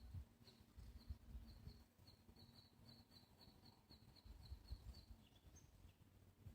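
Faint bird song: a run of short high whistled notes that speeds up to about four a second, then breaks off about five seconds in, followed by two or three scattered single notes.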